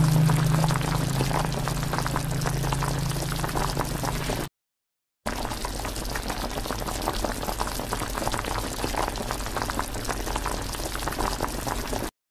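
Pot of pig's feet boiling in braising liquid: a steady, crackling bubbling. A low steady hum runs under it for the first few seconds, and the sound drops out briefly about four and a half seconds in.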